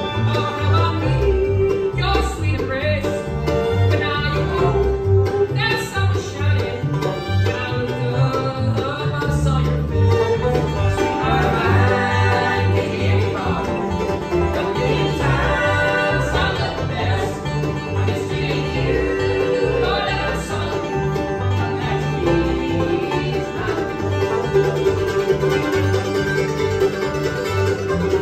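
Bluegrass band playing, with banjo and guitar picking over a steady, rhythmic low end.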